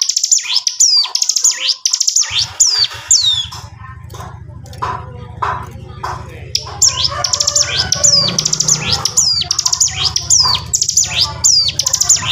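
A ciblek gunung (a prinia) singing in fast runs of sharp, high, downward-sweeping notes, the continuous drill-like 'ngebren' song. The song pauses briefly midway, and a steady low hum starts about two seconds in.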